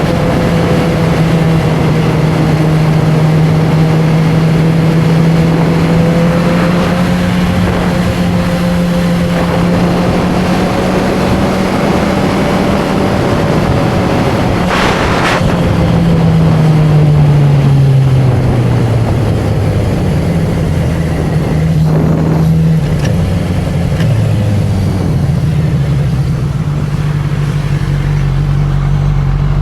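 Honda CB1000R's inline-four engine and exhaust running steadily under way. Its pitch falls past the middle as the bike slows, then it runs at a lower pitch to the end. A brief rushing noise comes about halfway through.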